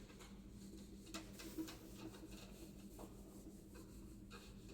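Faint rubbing and scratching on a writing surface, with a few light ticks, as of erasing or writing by hand.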